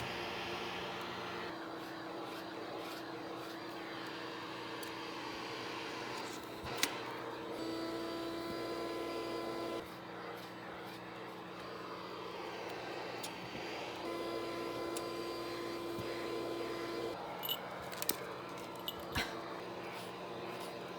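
Vacuum cleaner running steadily, its motor tone shifting several times, with a few sharp clicks.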